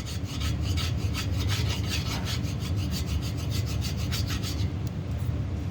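Hand file stroked quickly back and forth over a metal pin on a 350 Chevy block's water pump mounting surface, filing the pin flush with the face; a rasping scrape several times a second. The strokes stop near the end.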